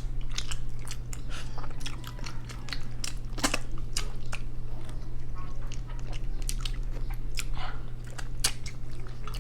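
Close-miked chewing and biting of pork adobo with lettuce: irregular wet smacks and crisp crunches, over a steady low hum.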